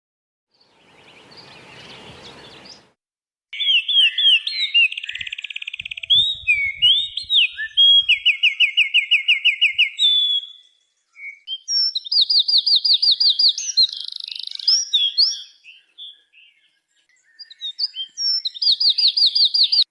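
A songbird singing a long, varied song of fast trills and repeated chirps in phrases with short pauses, after a brief faint hiss at the start.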